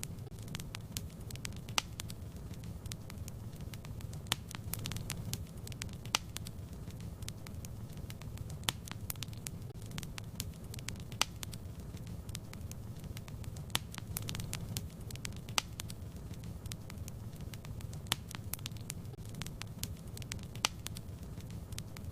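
Fire burning in a fireplace: a steady low rumble with irregular sharp crackles and pops, a louder pop every second or two among many small ones.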